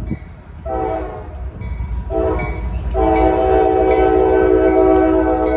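Locomotive air horn sounding a chord in repeated blasts: two short blasts, then a long one starting about three seconds in, over the low rumble of a passing train.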